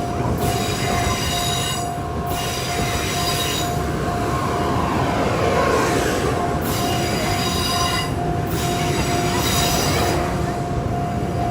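N700S Shinkansen train set rolling slowly past a level crossing, with its wheels squealing in high-pitched stretches that come and go every couple of seconds. A level-crossing warning bell rings in a steady beat throughout.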